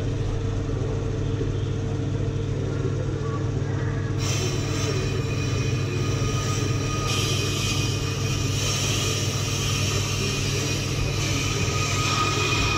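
Ammco 4000 brake lathe running with a steady hum while it turns a brake rotor. About four seconds in, the cutting bits start skimming the rotor face and a high, hissing squeal of metal being cut joins in, growing stronger about seven seconds in.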